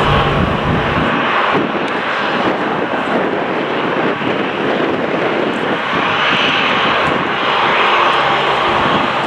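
Jet airliner engines at close range, a loud, steady rushing noise with no clear tone; a low hum underneath cuts out about a second in.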